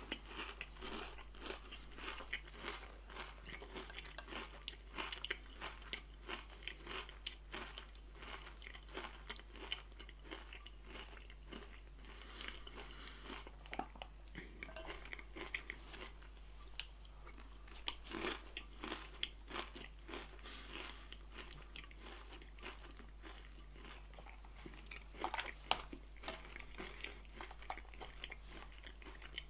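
A person chewing crunchy breakfast food close to the microphone: a steady, irregular run of small crunches, with a few louder ones about 18 seconds in and again near the end.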